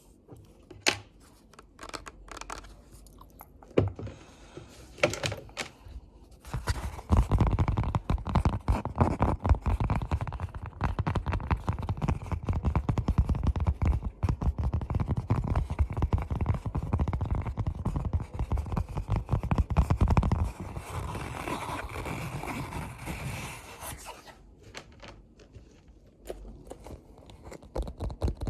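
Close-miked ASMR trigger sounds: a few scattered sharp taps, then from about seven seconds in a long spell of fast, dense scratching that eases off a few seconds before the end.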